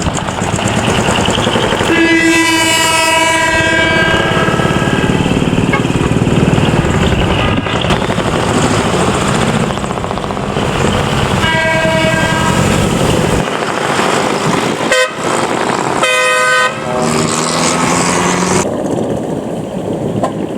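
Decorated trucks with modified exhausts running loudly as they pull out, and truck horns sounding three long blasts: about two seconds in, in the middle, and near the end.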